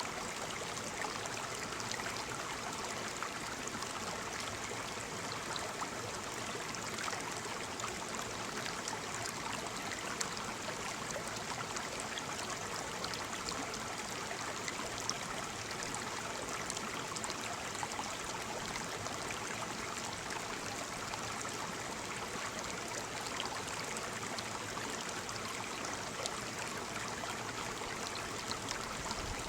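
Waterfall: a steady, even rush of falling water, flecked with many small splashes.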